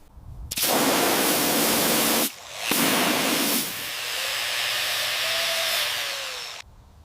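Hissing spray in three bursts: two short loud ones, then a longer, softer one that cuts off suddenly near the end.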